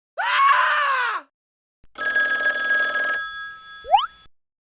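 Edited sound effects: a short pitched call that bends and falls, then a buzzing, ring-like tone lasting about a second, and near the end a quick upward swoop.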